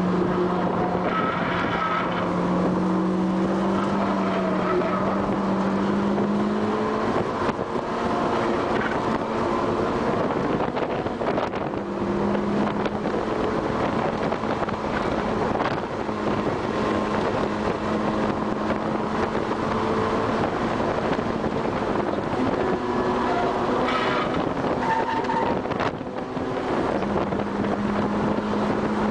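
Car engine under hard acceleration, heard from inside the cabin over a steady rush of road noise. The pitch climbs slowly, then drops back with a dip in level a few times, where the driver shifts or lifts, notably about a quarter of the way in and again near the end.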